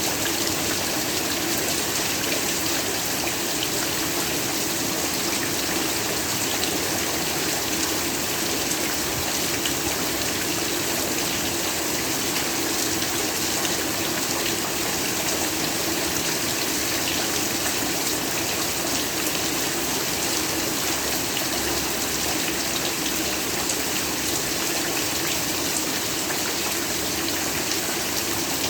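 Heavy rain falling steadily: a dense, even hiss of rainfall with many fine drop ticks.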